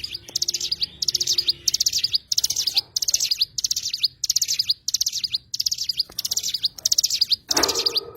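A cigun bird chirping a fast, repeated high-pitched call: short rattling phrases about twice a second, each ending in a quick rising note. A brief lower sound cuts in near the end.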